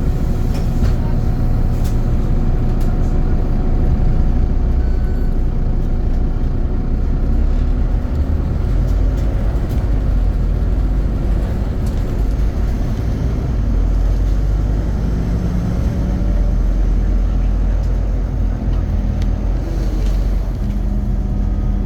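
Scania CN270UB city bus's diesel engine running as the bus drives, a steady low drone whose pitch rises and falls a little.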